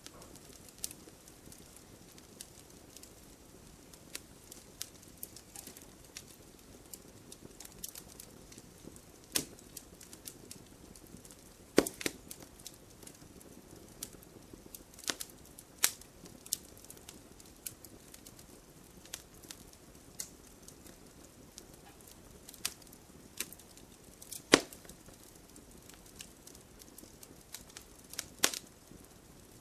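Wood bonfire crackling: irregular sharp pops and ticks over a low, steady hiss of burning, with a few louder snaps scattered through.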